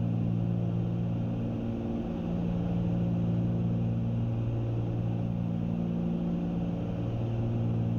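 Twin-engine Cessna 310's piston engines and propellers droning steadily in cruise flight.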